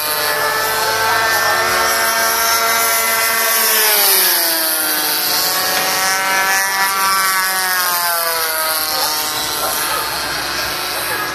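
DLE 20cc single-cylinder two-stroke gasoline engines of radio-controlled model warbirds flying overhead, a buzzing drone that slides down in pitch over the first few seconds, then rises and falls again as the planes pass.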